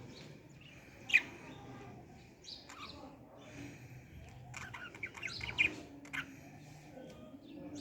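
Small pet parrots chirping: one sharp, loud chirp about a second in, then a quick run of short chirps around five to six seconds.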